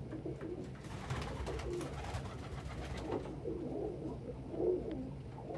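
Domestic pigeons cooing in a loft, low, wavering coos repeating throughout.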